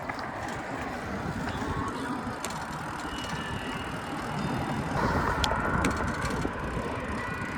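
Wind rumbling on the microphone and road noise while riding a bicycle along a street, with a few light clicks and a brief swell in loudness about five seconds in.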